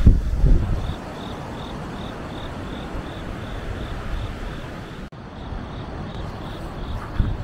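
Wind buffeting the microphone, with heavy gusts in the first second over a steady outdoor rush. Behind it an insect chirps in even pulses, about three a second.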